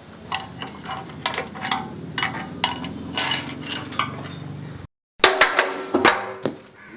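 Hammer blows and clinks on steel plate, a few strikes a second over a low steady machine hum. The sound cuts out briefly near five seconds, then louder strikes follow.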